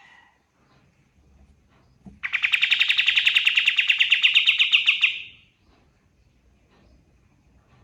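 Kapas tembak songbird singing one loud, rapid trill of about three seconds, its notes repeating many times a second, starting about two seconds in; faint short chirps before and after.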